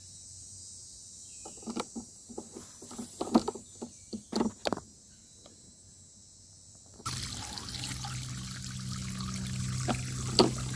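A few scattered knocks and scrapes, then about seven seconds in water starts pouring steadily into a post hole packed with dry concrete mix.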